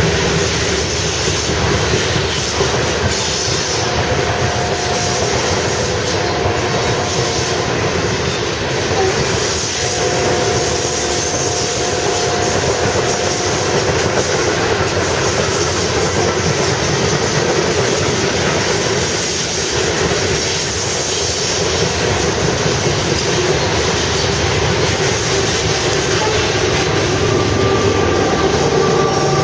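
Loaded coal train freight cars rolling past close by, with a steady heavy rumble and wheels clicking over the rail joints. A faint wheel squeal comes in twice and fades.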